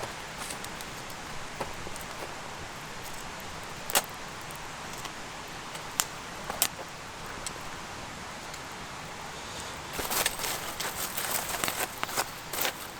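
Wood campfire crackling over a steady hiss, with a few sharp single pops, then denser crackling and rustling from about ten seconds in.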